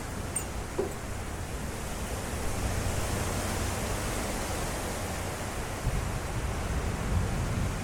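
Strong derecho wind gusts blowing hard, with low buffeting rumble, the gusting swelling a little about two and a half seconds in.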